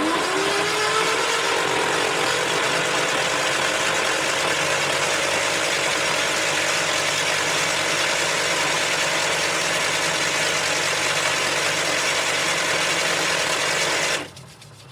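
Freed Massey Ferguson track loader engine being cranked over by its starter motor: a whine rises as it spins up, then it turns steadily for about fourteen seconds without catching and stops abruptly. This shows the once-seized engine now turns freely.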